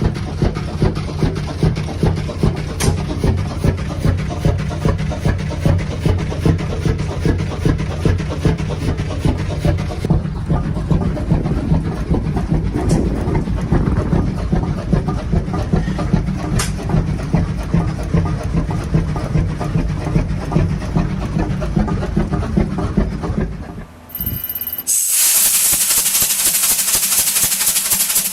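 Large vintage engine running with a slow, even, heavy beat. Near the end it cuts to a different machine with a loud hiss and a fast, regular ticking.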